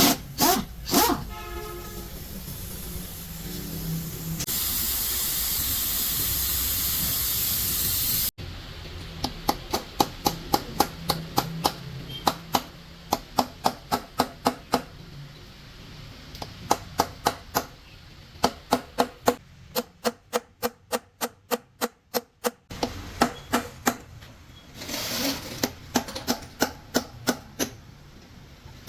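A steady hiss like blowing air for about eight seconds. After a cut it gives way to a long series of sharp taps or knocks, a few a second, with a quicker run about two-thirds of the way through, and a short burst of hiss near the end.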